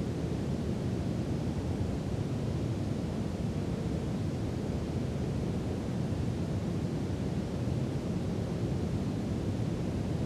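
Steady brown noise: an even, deep hiss with most of its energy low down and little in the highs, unchanging throughout.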